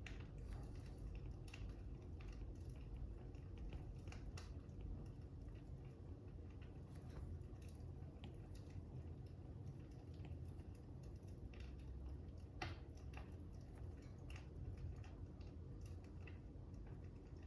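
Wood fire crackling: irregular small pops and snaps over a low, steady rumble, with one sharper snap about two-thirds of the way through.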